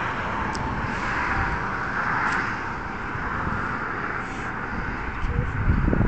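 Steady rushing noise of road traffic on the highway bridge, swelling about two seconds in as a vehicle passes, with wind buffeting the phone's microphone near the end.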